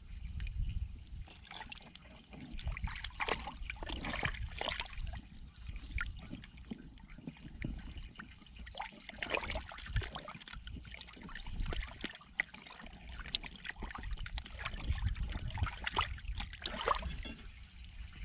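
Water trickling and sloshing, with many irregular small splashes.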